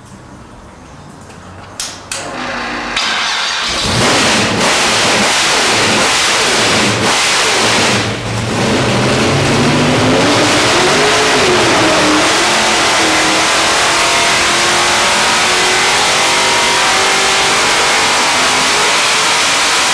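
A naturally aspirated 434 ci small-block Chevy V8 race engine with ARAO 32-valve heads, tunnel ram and twin 850 double-pumper carburettors, mechanical roller cam and 15:1 compression, coming to life about two seconds in and revving up, then after a brief dip near eight seconds running loud and steady under a hard dyno pull.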